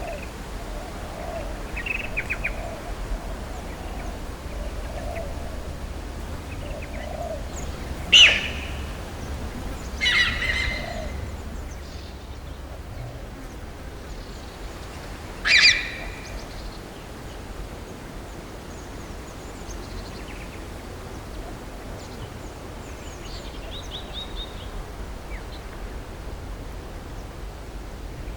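Outdoor wildlife ambience with birds calling: scattered faint chirps and three loud, sharp calls, over a steady low rumble.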